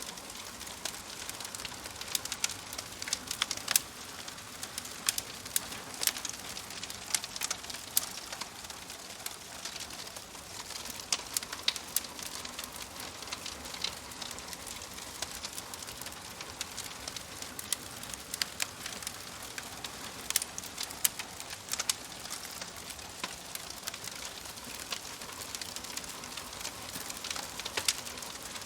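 Wood fire burning in a fireplace: a steady hiss with frequent sharp, irregular crackles and pops from the logs.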